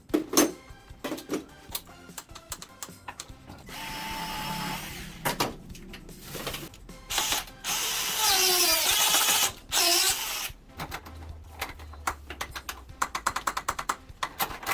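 Power drill running in a few bursts, the longest near the middle, its pitch dropping as it winds down, among scattered clicks and knocks of installation work.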